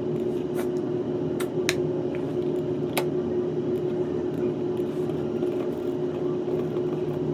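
Steady mechanical hum with one constant mid-pitched tone, with a few sharp clicks in the first three seconds.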